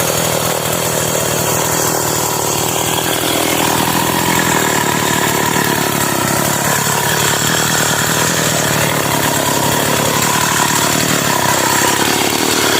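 Stihl MS 381 two-stroke chainsaw running loud at a steady engine speed.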